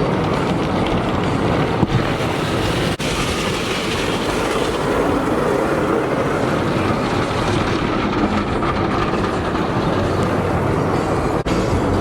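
Steady rumbling vehicle noise with a low hum and no speech.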